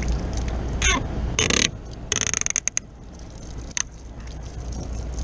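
A few sudden handling noises, then a quick run of sharp ratchet-like mechanical clicks lasting about half a second, and a single click near the four-second mark.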